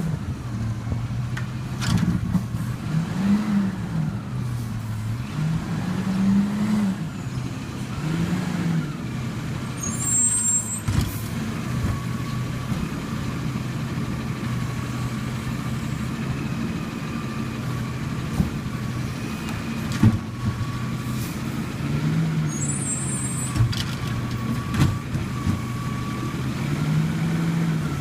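Rubbish truck engine running steadily, its pitch rising and falling briefly several times, with occasional sharp clunks and short high hisses.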